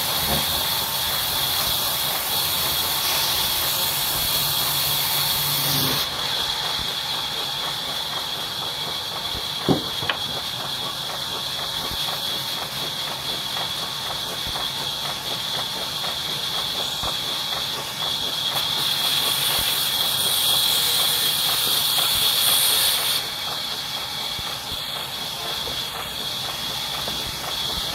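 Wood-cutting saw machine running through wood, a steady loud hiss that shifts in level a few times, with one short click partway through.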